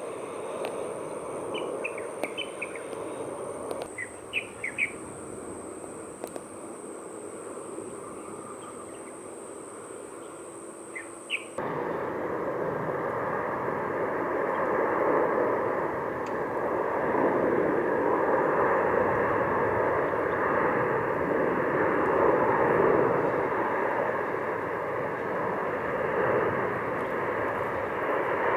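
Birds chirping over a steady high insect drone and faint background noise. Then, after a sudden cut about a third of the way in, an Airbus A330 jet airliner's engines at takeoff power: loud, steady jet noise that swells a little.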